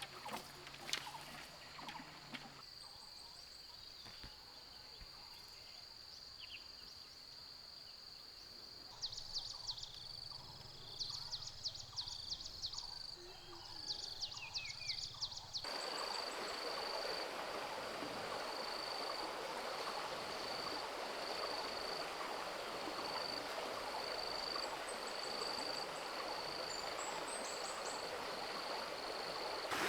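Forest ambience: a steady high-pitched insect drone with three short bursts of rapid chirping, then, after an abrupt change about halfway, the rushing of a flowing creek with the insect call pulsing through it.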